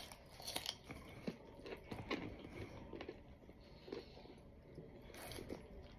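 Biting into and chewing a piece of fresh coconut flesh: a string of faint, irregular crunches.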